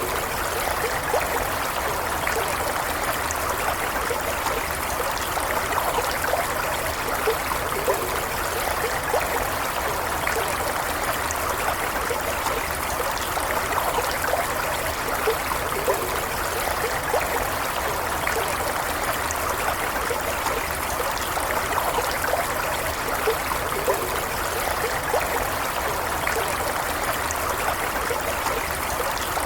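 Small stream running steadily, water trickling and gurgling over stones, with an even, unchanging flow.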